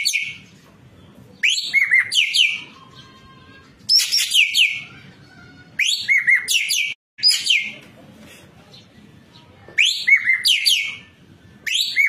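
Ekek keling, a songbird kept in Indonesia, singing loudly in short repeated phrases about every two seconds. Each phrase is a quick run of several falling whistled notes.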